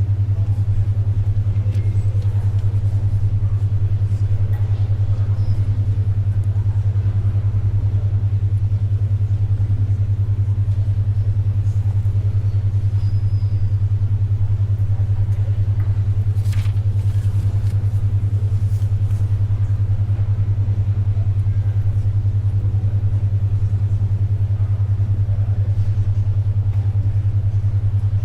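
A loud low hum pulsing rapidly and evenly, a 10.2 Hz alpha brainwave tone, over faint library background noise, with a brief rustle about halfway through.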